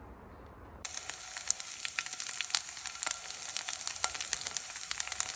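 Food sizzling and crackling in a hot pan, starting abruptly about a second in, with many small pops over a steady hiss.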